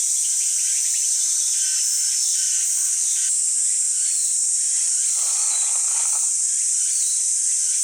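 Steady, loud, high-pitched chorus of insects, with a brief soft noise about five seconds in.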